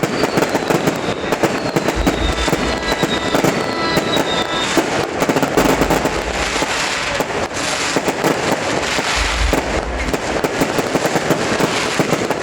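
Fireworks display: dense, continuous crackling and popping of aerial shells, with deep booms a few times. In the first few seconds, several falling whistles sound over the crackle.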